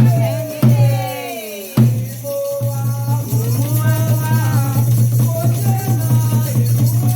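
Candomblé ceremonial music: hand drums and rattles keeping a steady rhythm under singing voices. The music drops out briefly about a second and a half in, then resumes.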